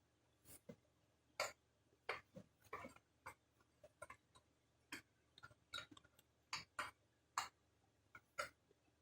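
Irregular light clicks and clinks of hand tools and small metal parts being handled, about twenty sharp taps spread unevenly over a few seconds against a quiet background.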